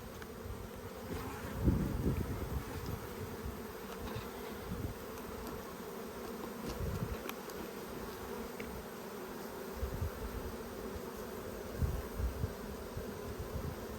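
Honeybees buzzing around an open Langstroth hive during a frame inspection, a steady mass hum of a strong colony, with a few soft low bumps, the clearest near the start.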